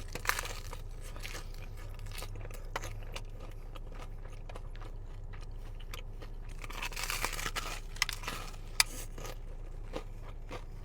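A person chewing a mouthful of sushi close to the microphone: crisp crunches and small wet clicks, with a denser run of crunching about seven seconds in and one sharp click near nine seconds.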